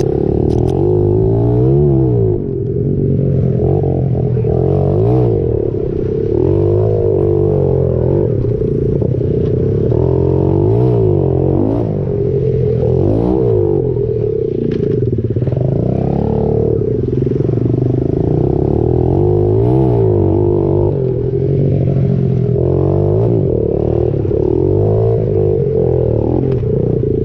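Pit bike engine being ridden, revving up and falling back again and again, its pitch rising and dropping every couple of seconds as the throttle opens and closes.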